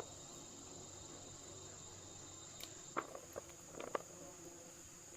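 Insects chirring in a steady, high-pitched drone, with a few light knocks or clicks about three and four seconds in.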